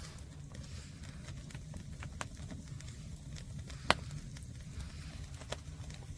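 Fire of green firewood burning with a steady low rumble, crackling in scattered sharp pops, with one loud pop near the middle.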